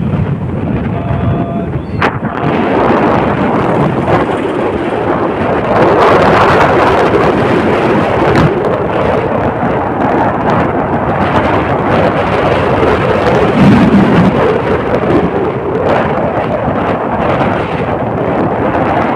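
Loud rumbling wind buffeting the microphone, with an uneven, gusting noise.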